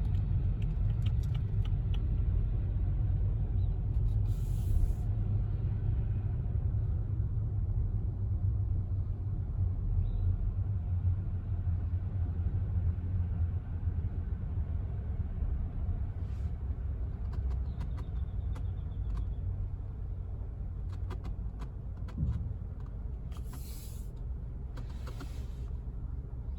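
Car's engine and road rumble while it idles and rolls slowly forward: a steady low rumble, with a few short hisses, one about five seconds in and two near the end.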